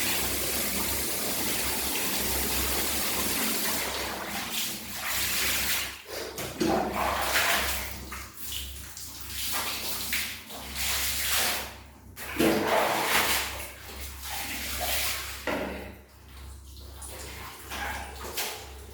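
Water running steadily from a tap or shower into a bath, then breaking up about four seconds in into irregular splashes and pours of water during a kitten's bath.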